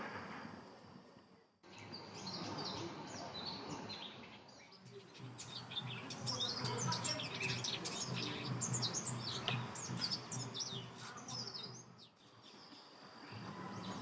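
Several forest birds chirping and calling: many quick, high, sweeping notes, thickest in the middle, over a low steady hum. The sound breaks off briefly twice, near the start and near the end.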